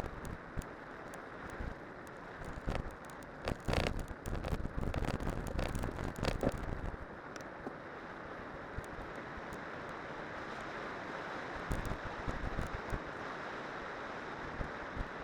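Steady rushing wind and rolling noise from a cyclocross bike descending on spiked tyres, with a run of sharp rattles and knocks from about three to seven seconds in.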